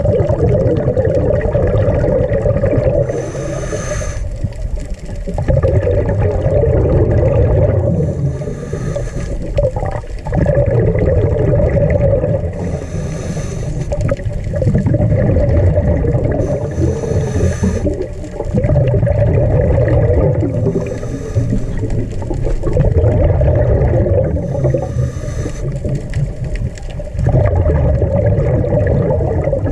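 A diver breathing underwater through a scuba regulator: a short hiss on each inhale, then a longer bubbling gurgle on each exhale, repeating about every four to five seconds.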